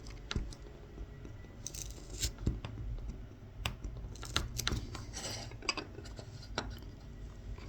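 Knife tip scoring fine kolrosing lines into a carved wooden spoon: irregular short scratches and clicks, with a few longer scraping strokes.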